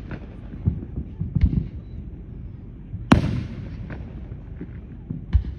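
Fireworks shells bursting overhead, over a steady low rumble of other bursts. There is a smaller bang about a second and a half in, the loudest bang about three seconds in with a fading rolling tail, and another bang near the end.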